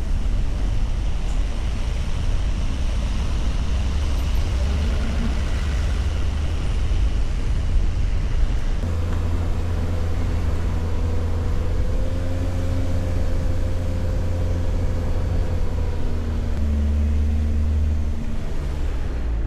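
Car engine running with road rumble, a steady engine hum coming in about halfway and changing pitch near the end.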